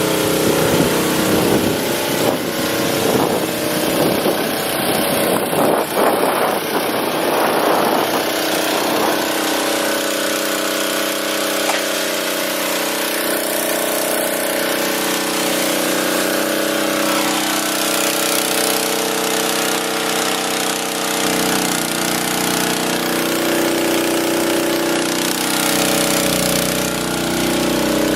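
An engine running steadily, rougher and more uneven for the first several seconds, then settling into an even run.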